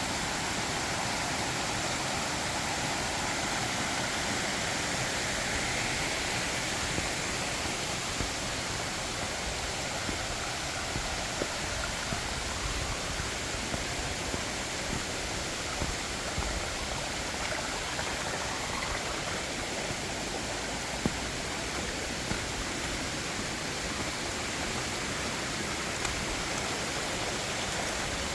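Mountain stream rushing steadily over rocks, with a few small ticks here and there.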